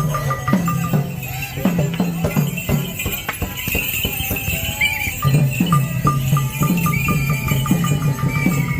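Percussion music at a Khmer festival: repeated low drum strokes under a fast ticking beat from small cymbals or bells. The ticking drops out for a few seconds in the middle and then comes back.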